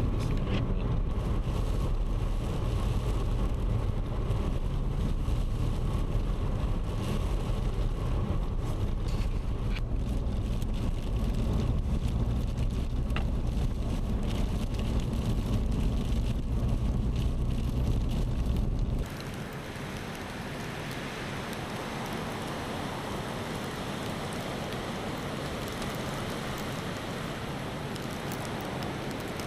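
Steady low rumble of a vehicle driving in a blizzard. It cuts off suddenly about two-thirds of the way through and gives way to a quieter, even hiss of wind-blown snow.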